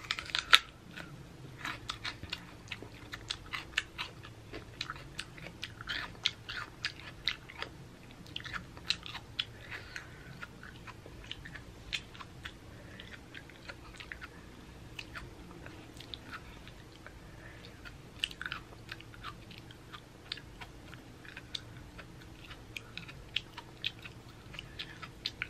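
Close-up crunchy chewing and biting of a raw jalapeño pepper stuffed with cream cheese and coated in crushed chips. Irregular crisp crunches come several times a second, and the food is hard to chew.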